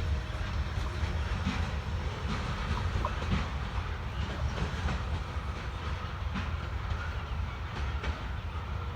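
N scale model train running along the track: a steady low rumble with faint, irregular clicks of the wheels over the rail joints.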